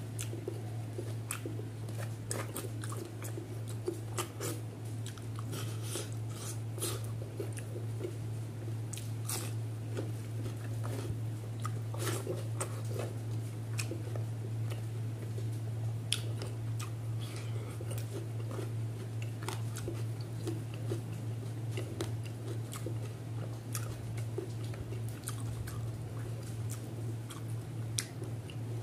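Close-up eating sounds of rice and fish curry eaten by hand: chewing, biting and wet mouth clicks, with many short sharp clicks and smacks. A steady low hum runs underneath.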